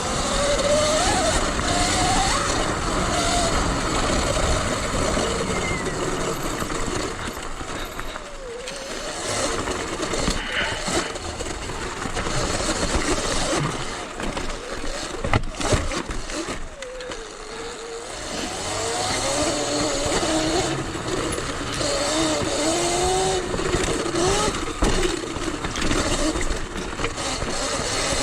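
Sur Ron Light Bee electric dirt bike being ridden off-road: the electric motor's whine rises and falls in pitch with the throttle over a steady rush of noise, easing off briefly a couple of times.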